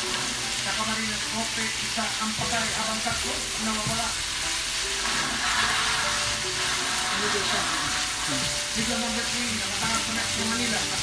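Vegetables for pancit frying in a hot pan with a steady sizzle, stirred as they cook.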